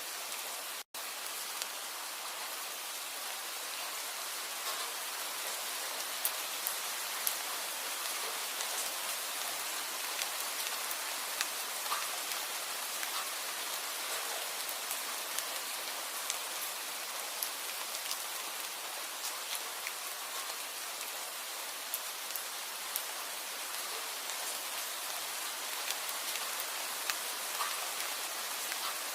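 Steady rain, an even hiss with scattered sharper drop ticks. The sound cuts out for an instant about a second in.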